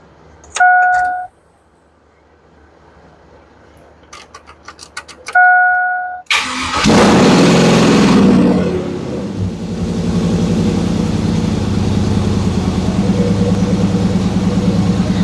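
2002 Chevrolet Silverado's dash warning chime sounds twice with a few clicks between, then the engine cranks and fires, flares to a high rev and settles into a steady idle. The high flare on start comes from the battery having been disconnected; the idle carries an exhaust leak at a V-band joint that is not fully seated, as the owner later judges.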